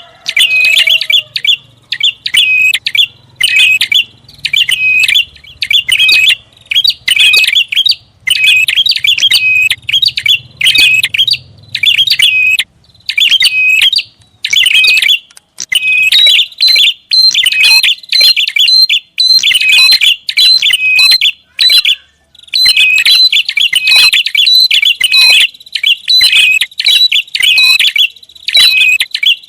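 Prinia (prenjak) calling loudly and without let-up: fast strings of sharp, high chirps with only brief pauses between phrases, the agitated calling used as a bird-lure sound.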